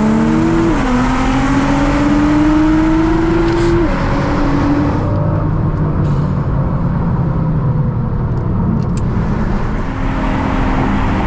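Car engine accelerating through the gears: its pitch climbs, drops at a shift about a second in, climbs again and drops near four seconds, then it runs on steadily with road noise.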